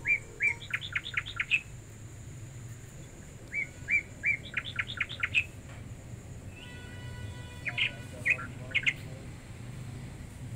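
A small songbird singing in three short runs of quick, high chirps, a few seconds apart, over a steady low hum.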